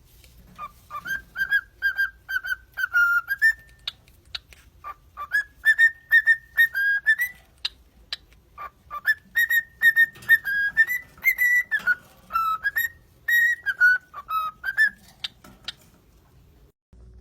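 A parrot whistling a melody in quick runs of short, clear notes, with sharp clicks mixed in.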